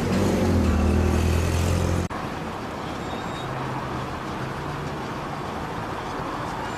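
A motor vehicle's engine running close by for about two seconds, then an abrupt cut to steady, quieter road traffic noise.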